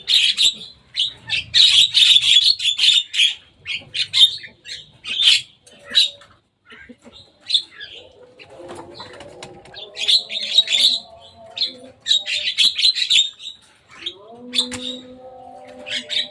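Javan mynas calling: rapid, harsh chattering calls in bursts with short gaps. A fainter low steady drone comes in about halfway and again near the end, rising in pitch once.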